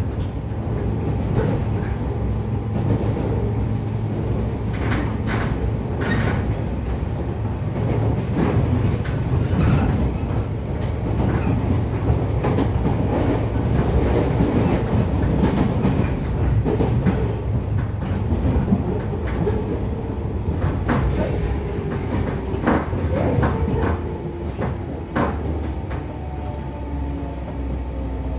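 Running sound inside a JR Kyushu 415 series 500 subseries electric motor car (MoHa 415-520): steady rumble of the wheels on the rails with scattered clacks over rail joints. A faint motor whine falls in pitch over the last several seconds as the train slows.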